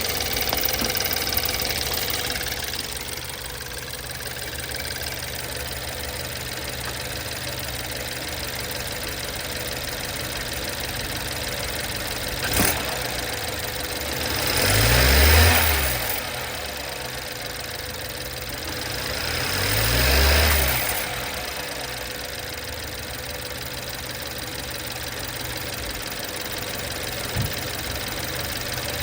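BMW N20 2.0-litre turbocharged four-cylinder engine idling with a rattle that the owner traces to play in the turbo's wastegate actuator arm. It is revved briefly twice, about five seconds apart, and there is a single short click shortly before the first rev.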